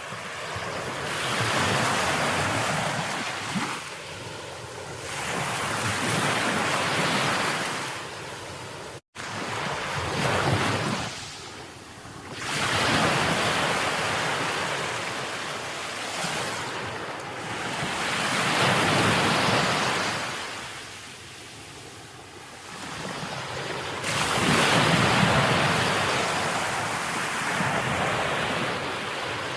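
Sea waves breaking and washing on the shore, the rush of surf swelling and fading every four to six seconds.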